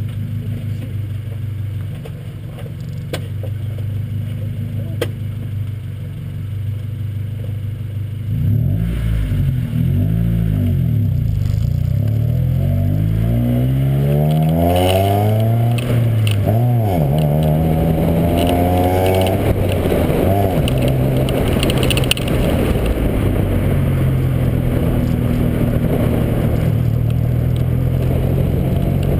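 Honda Civic's engine running steadily at low revs, then accelerating about eight seconds in, the revs climbing and falling back through several gear changes before settling to a steady cruise. Wind and road noise on the fender-mounted microphone while moving.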